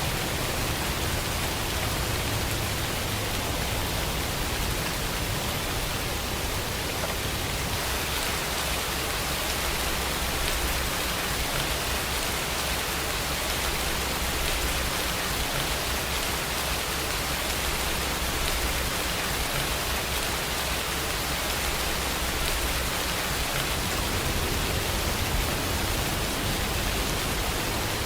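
Steady, even rainfall, a continuous hiss of many drops with no single drop or thunderclap standing out.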